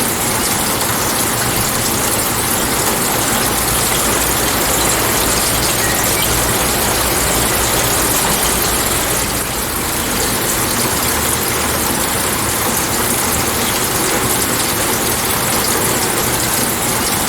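Steady rain, an even hiss that dips slightly in level about halfway through.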